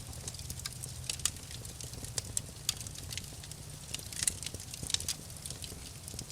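Wood fire crackling, with irregular sharp pops scattered through, a few louder ones about four and five seconds in, over a steady low rumble of the burning fire.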